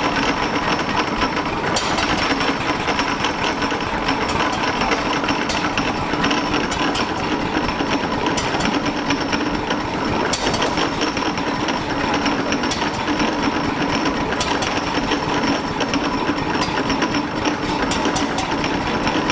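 Ogle patent hot-bulb paraffin oil engine running steadily with a fast, even mechanical clatter and a few sharper clicks.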